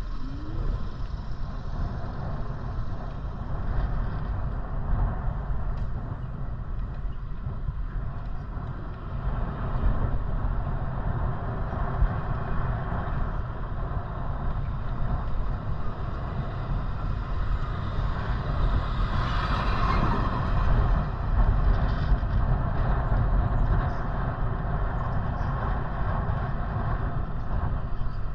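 Steady low rumble of wind buffeting the microphone, mixed with road and street traffic noise while riding. A brighter hiss rises and fades about two-thirds of the way through.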